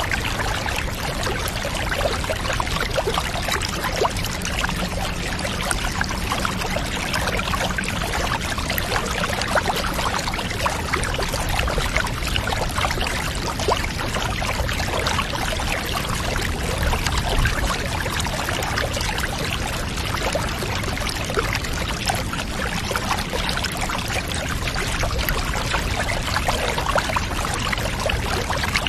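Water pouring steadily and evenly, as from a tap filling a bathtub, with no break or change.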